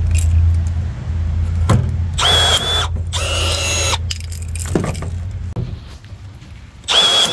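Cordless power tool run in three short bursts, each under a second long, about two, three and seven seconds in: a high motor whine with harsh grinding noise.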